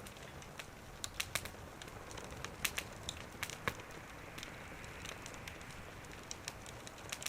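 Wood fire crackling in a small wood stove, with irregular sharp pops and snaps of burning wood over a low steady hiss.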